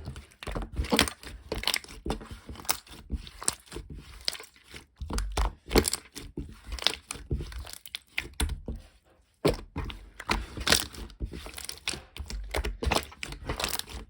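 A close, irregular string of clicks, knocks and crackling handling noises with occasional dull thumps.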